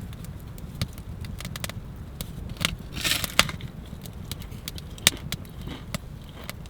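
Wood fire crackling, with scattered sharp pops and a short burst of noise about three seconds in.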